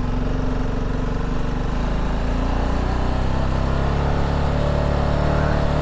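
Motorcycle engine pulling up a steep hill in a low gear, its pitch rising steadily through the second half as the bike speeds up.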